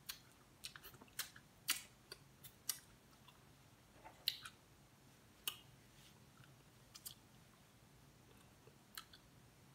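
Mouth sounds of close-miked chewing: a run of sharp wet clicks and smacks, busiest in the first three seconds, then a few scattered ones.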